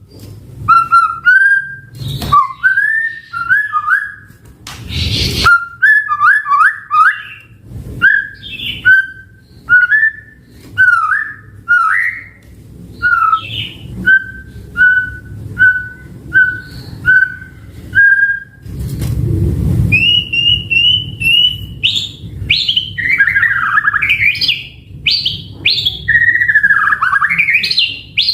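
White-rumped shama singing: clear whistled phrases, with a run of short, even whistles about one a second midway, then faster phrases that swoop up and down near the end. Two short noisy hisses break in, about five seconds in and near two-thirds through.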